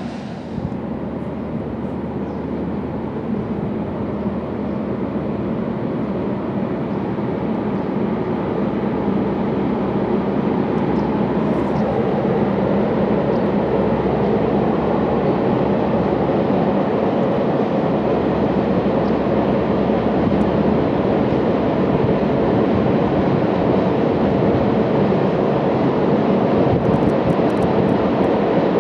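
Freight train of tank wagons crossing a steel truss bridge overhead, a steady rumble with a low hum underneath that grows gradually louder.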